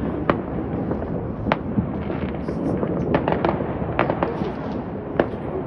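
Fireworks going off: sharp cracks every second or so, with a quick run of bangs about three seconds in, over a continuous low rumble of more distant explosions.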